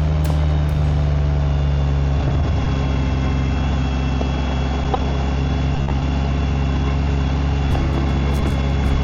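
BMW K1600GT's inline-six engine and exhaust running at low, steady revs; the pitch shifts slightly about two seconds in and then holds. A faint regular ticking comes in near the end.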